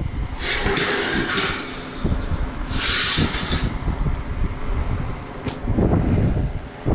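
Two short hissing bursts of aerosol penetrating oil (WD-40), each about a second long, sprayed onto a condenser fan motor's seized blade hub. Behind them is a steady low rumble of wind on the microphone.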